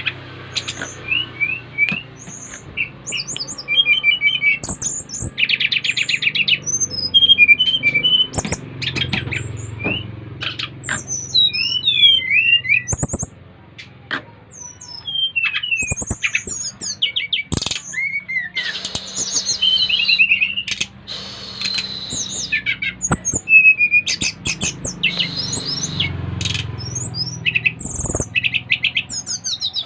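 Several SRDC (sikatan rimba dada coklat) songbirds singing: a string of short whistled chirps, quick slurred phrases and fast rattling trills, one bird answering another, with a few sharp clicks among them.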